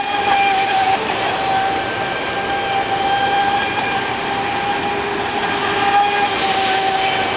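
Traxxas Spartan RC speed boat's brushless electric motor whining at a steady high pitch over a rushing hiss, the pitch dipping slightly about a second in and again near the end.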